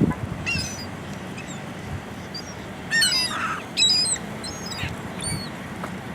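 Birds gathered at scattered food, calling: several short, high calls, the loudest coming about three and four seconds in.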